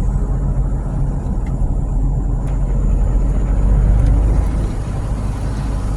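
A steady low rumbling noise with no clear beat or change.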